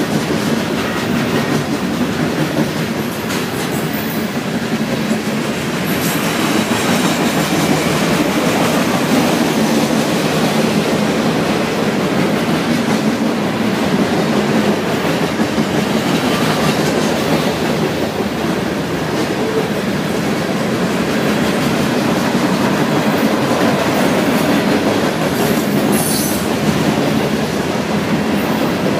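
Freight train of covered hopper cars rolling past at steady speed, its steel wheels making a steady rumble and rattle on the rails. A brief high wheel squeal comes near the end.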